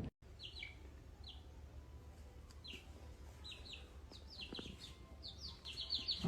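Faint high-pitched chirping of a small animal: short falling chirps, a few at first, then coming in quick runs of two to four near the end.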